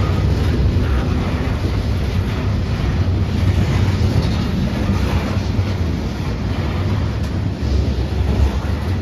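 A CSX loaded coal train rolling slowly past, its wheels and cars making a deep, steady rumble.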